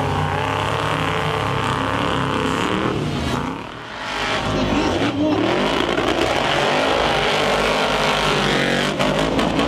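Monster truck engine running hard at high revs, dropping off briefly about three and a half seconds in and then revving back up with the pitch rising and falling.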